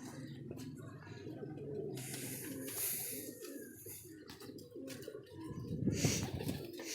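A loft of domestic pigeons cooing continually, several birds overlapping, with a couple of short rustling bursts, the loudest near the end.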